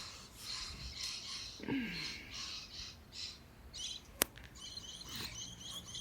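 Birds chirping and calling in quick repeated phrases, with a single sharp click about four seconds in.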